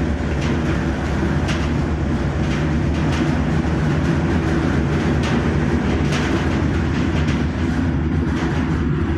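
Charcoal grinder running steadily with a loud, continuous low hum and irregular ticks and knocks on top.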